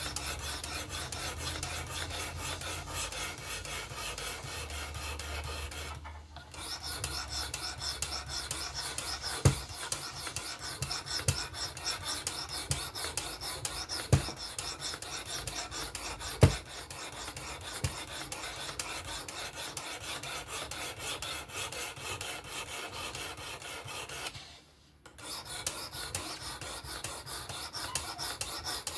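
Abrasive stone rasping back and forth along a Vosteed Acorn's 14C28N steel knife blade on a Work Sharp fixed-angle sharpener, in rapid continuous strokes. The strokes stop briefly twice, and a few sharp knocks come in the middle stretch.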